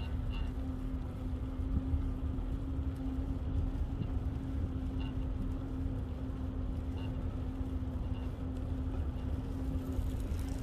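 Steady low rumble of wind on the microphone and rolling noise from a moving bicycle, under a constant low hum, with a few short faint high chirps.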